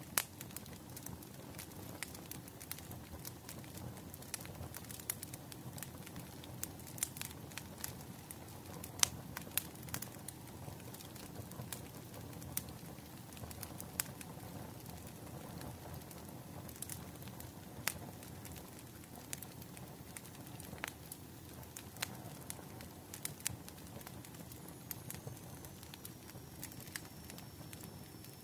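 Bonfire crackling: irregular sharp pops and snaps of burning wood over a steady low rush of flames. The loudest snap comes about nine seconds in.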